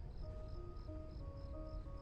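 A cricket chirping steadily, about three chirps a second, over faint music with soft held notes.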